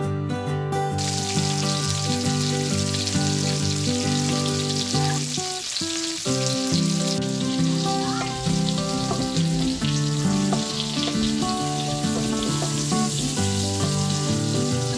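Potato and carrot chunks sizzling in hot oil in a stainless steel pan, a steady frying hiss that starts about a second in. Background music plays throughout.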